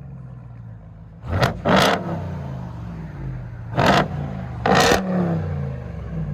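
2021 Ram TRX's supercharged 6.2-litre Hemi V8, straight-piped with the mufflers and resonators deleted, idling, then revved in about four short, sharp blips, dropping back to idle after each.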